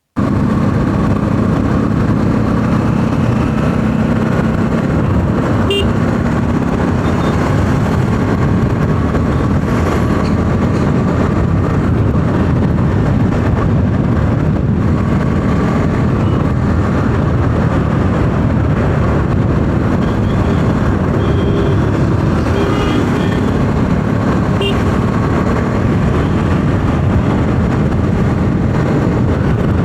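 Steady riding noise from a Bajaj Pulsar 200 NS single-cylinder motorcycle on the move in traffic: a constant rush of engine and wind. A few short horn toots sound about two-thirds of the way through.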